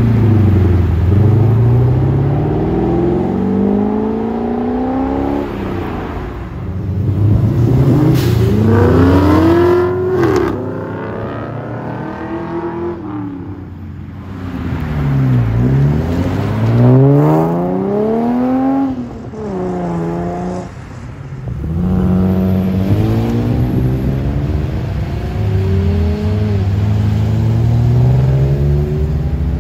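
Modified cars pulling away one after another, their engines revving hard as they accelerate. The engine note rises sharply in pitch and drops back several times over.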